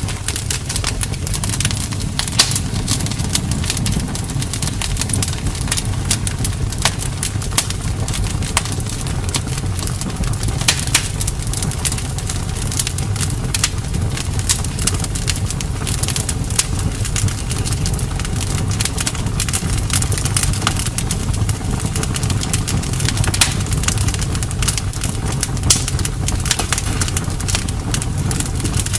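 Campfire burning, with the wood crackling and popping in many irregular sharp snaps over a steady low rumble.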